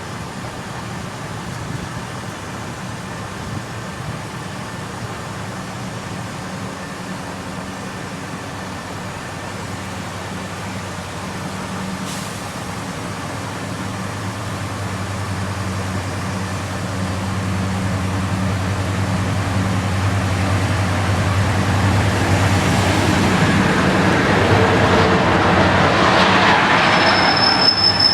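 Warship-class diesel locomotive running with a steady low engine drone that grows louder as the train draws near. Near the end a high, steady wheel squeal sets in.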